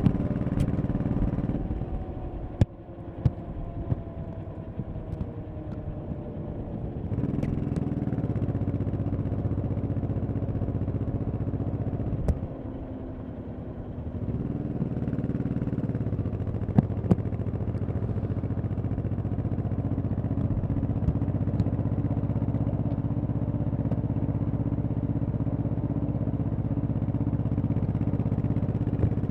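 1100cc V-twin motorcycle engine under way: it eases off and quietens from about 2 to 7 seconds in, picks up again, dips briefly a few seconds later, then runs steadily at cruising speed. A few sharp clicks occur over it.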